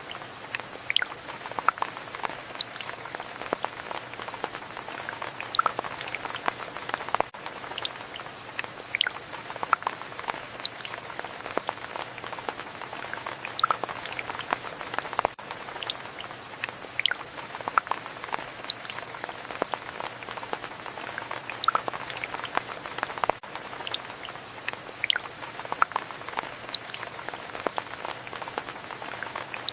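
Steady rain, a continuous hiss with many individual drops ticking and pattering irregularly. The hiss dips briefly about every eight seconds.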